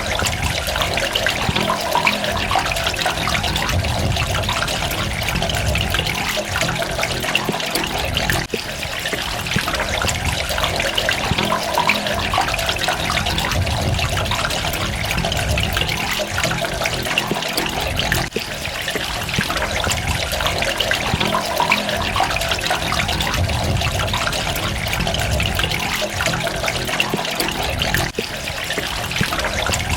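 Water running and splashing steadily, a continuous trickling rush with soft low surges every few seconds.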